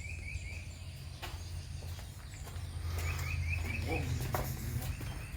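Outdoor ambience: two quick runs of about five short, high chirps each, one at the start and one about three seconds in, over a steady low rumble of wind on the microphone.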